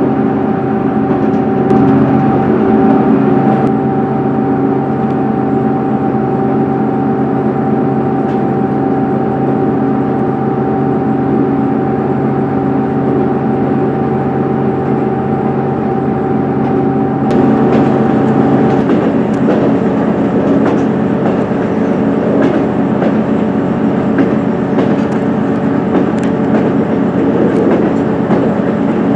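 Diesel passenger train running, heard from inside the carriage: a steady engine drone with several even tones over the rumble of the wheels. A little past halfway it turns rougher, with more rattles and clicks from the track.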